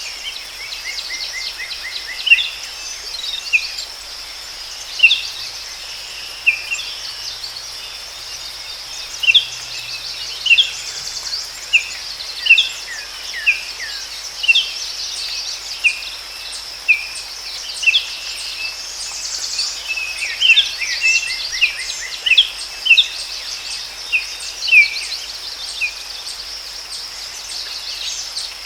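Forest ambience: small birds give short, sharp chirps, about one every second or two, over a steady high insect drone and a faint background hiss.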